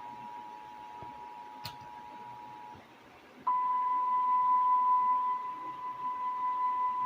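Emergency Alert System attention signal: a steady two-tone sound that stops a little before three seconds in. After a short pause, a louder single steady tone, the weather-radio warning alarm, starts and holds.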